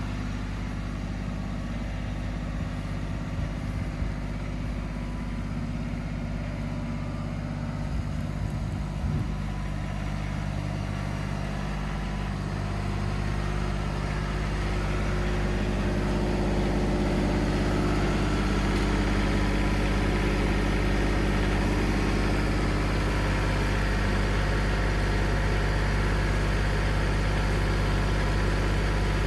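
A vehicle engine running steadily, growing somewhat louder about halfway through, with a few knocks a third of the way in.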